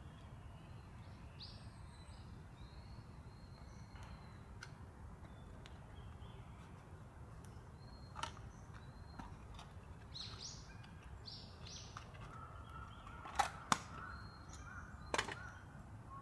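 Small birds calling in short chirps over a low steady outdoor hum, with three sharp cracks near the end.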